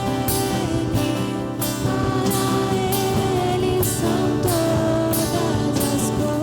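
Christian worship song played by a band with singing, held melody notes over a steady beat of drum and cymbal strokes.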